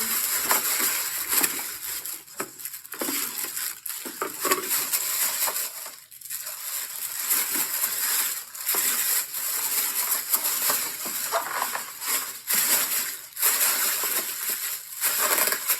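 Packaging being handled and crumpled: an irregular crinkling and rustling, broken by a few short knocks.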